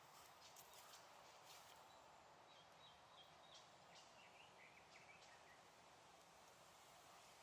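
Faint crackling of a small wood fire, with sharp pops scattered through. A few short, faint bird chirps come in the middle.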